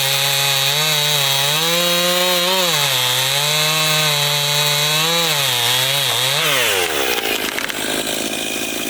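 Chainsaw cutting firewood, its engine pitch dipping and recovering as the chain bites into the wood. About seven seconds in the throttle is let off and the pitch falls away steeply.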